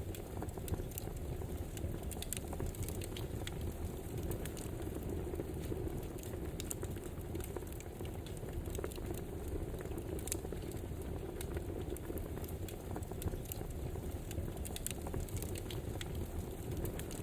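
Campfire burning, with a steady hiss and frequent sharp crackles and pops.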